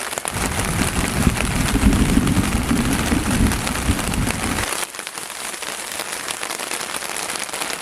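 Heavy rain pattering densely on a surface. A low rumble rides under it for the first four and a half seconds and stops abruptly.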